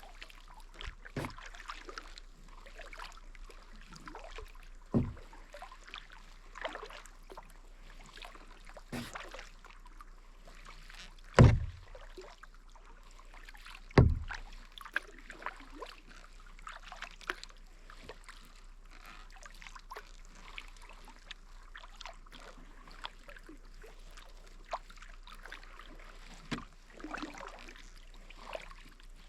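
Kayak paddle strokes dipping and dripping in shallow water, with small splashes throughout. A few loud low thumps stand out, the two loudest about 11 and 14 seconds in.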